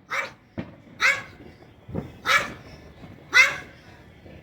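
A dog barking four times, about a second apart, with a couple of sharp firework bangs going off between the barks.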